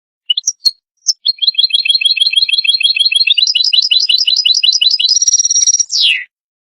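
European goldfinch singing: a few short chirps, then a fast, rapidly repeated trill lasting about four seconds, ending in a note that slides down.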